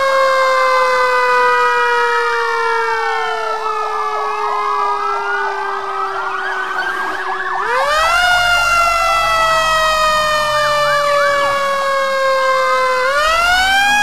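Fire engine siren wailing. Each wail jumps up quickly and then falls slowly over about five seconds, with several siren tones sounding together. New wails start about eight seconds in and again near the end.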